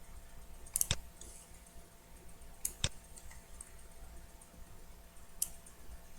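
Computer mouse button clicking: two quick pairs of clicks, about one and three seconds in, then a single click near the end.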